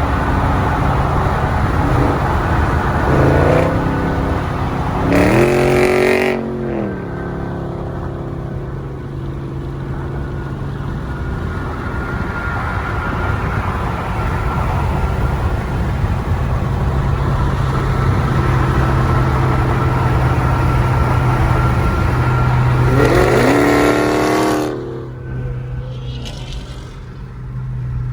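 Car engine at highway speed, revving up hard twice, its pitch climbing with each pull: once about five seconds in, cutting off sharply, and again near the end. A steady engine drone and road noise run in between.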